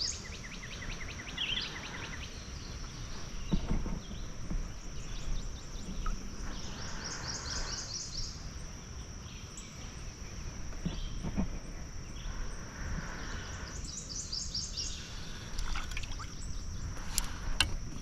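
Songbirds singing in repeated fast trilled phrases over a steady high-pitched drone and low outdoor rumble. A few sharp clicks near the end.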